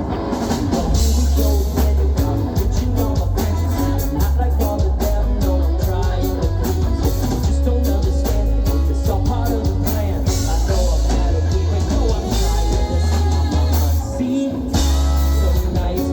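Live rock band playing, with guitar, bass and drum kit, and singing at times.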